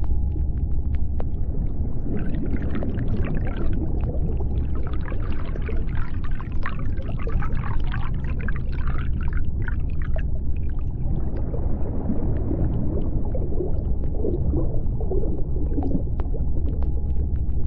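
Underwater sea ambience: a steady deep rumble with scattered sharp clicks. Rapid, chirping, whale-like calls come in about two seconds in and run until about ten seconds, then return lower in pitch between about twelve and sixteen seconds.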